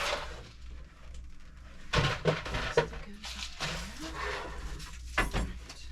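Rustling of food packaging and knocks of items being picked up and set down on pantry shelves, with sharper knocks about two seconds in and again near the end.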